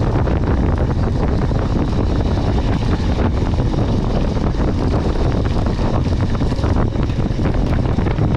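Wind rushing over the microphone of a camera riding on a mountain bike at speed, with a dense clatter of small knocks and rattles from the rough trail.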